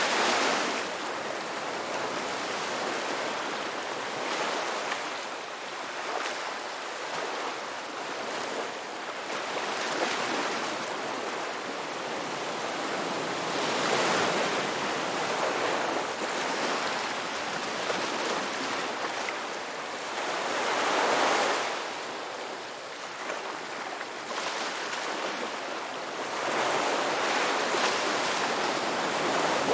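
Ocean waves washing ashore: a continuous hiss of surf that swells and ebbs every few seconds as each wave breaks, with the biggest surges about halfway through and again a little later.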